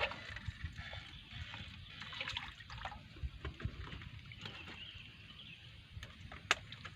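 Water splashing and lapping, with scattered small knocks and clicks and one sharp click about six and a half seconds in.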